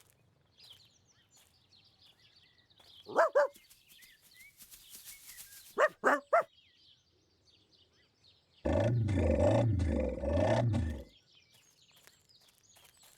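A farm animal's low, wavering call, about two seconds long, rising and falling about three times, near the end. It is preceded by two short, higher calls, over faint birdsong.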